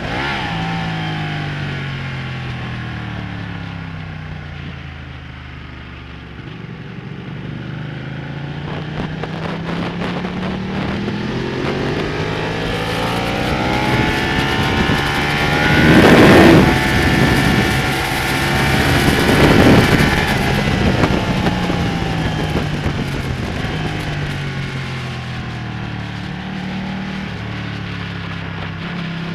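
Ducati Panigale V-twin sportbike engine heard from on board while lapping a race track. The revs drop and climb again and again through the corners and gear changes, with two louder stretches about halfway through.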